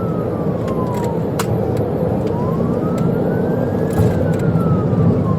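Police car siren on a slow wail, rising and falling about once every four seconds, over the steady rumble of a patrol car driving at high speed, with a couple of sharp clicks.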